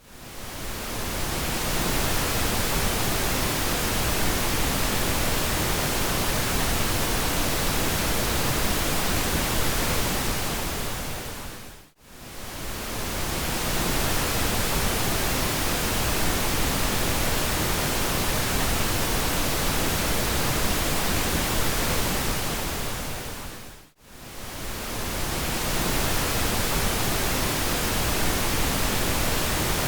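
Steady pink noise, an even hiss spread across all pitches. It fades almost to silence and back in three times: at the start, about twelve seconds in and about twenty-four seconds in.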